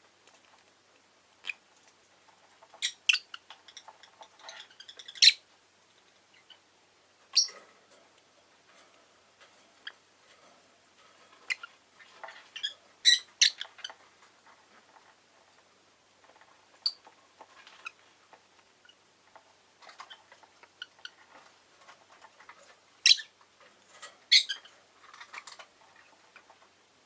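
Rosy-faced lovebirds giving short, shrill chirps now and then, several in quick pairs, with soft ticking and clicking between the calls.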